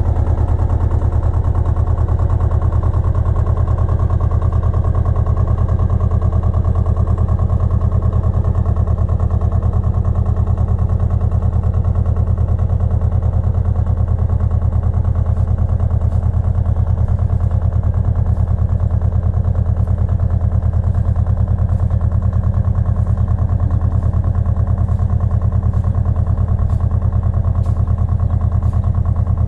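Pasquali 980 EX walking tractor's engine running steadily at a constant speed, a strong low hum with an even, rapid firing beat, with faint light ticks over it in the second half.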